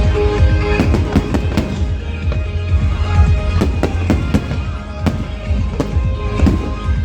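Fireworks going off in a rapid string of sharp bangs and cracks, heard together with a hip-hop music track with a steady low beat.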